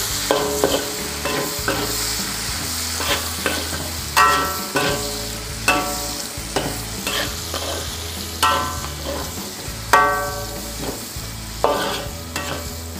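Sliced onion and carrot sizzling in hot oil in a wok while being stir-fried with a spatula. The spatula scrapes and knocks against the wok about a dozen times, and the wok rings briefly after the harder knocks.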